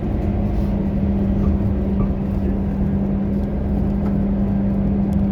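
Scania K230UB city bus running at an even pace, its engine and drivetrain giving a continuous low rumble under a steady hum that holds one pitch.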